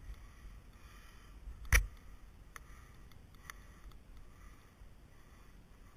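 Quiet background with one sharp knock about two seconds in, followed by a few faint ticks.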